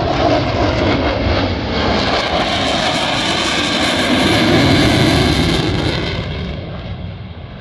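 Aircraft engine noise of a plane flying past during an air show display, growing brighter and louder through the middle and then fading over the last second or two.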